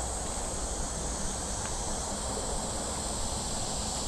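Summer cicadas droning steadily in a high-pitched chorus, a second cicada band swelling louder through the second half, over a low outdoor rumble.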